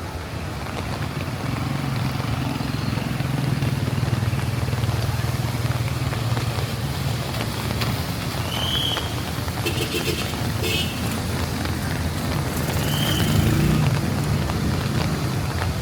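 Motor vehicles passing on a wet road in the rain: a low, steady engine hum that builds a couple of seconds in and swells again near the end, over constant rain hiss. A few short high chirps and brief clicks sound in between.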